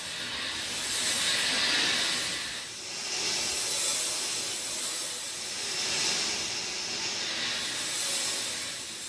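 Rain falling steadily, a dense hiss that swells and eases every couple of seconds.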